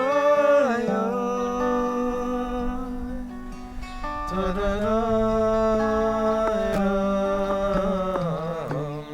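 A man singing long held notes over acoustic guitar, without any words that the recogniser picks up.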